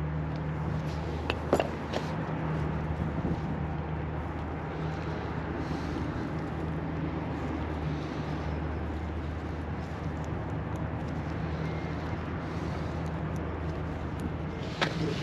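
Steady low hum of a running engine, with a couple of short light clicks, one about a second and a half in and one near the end.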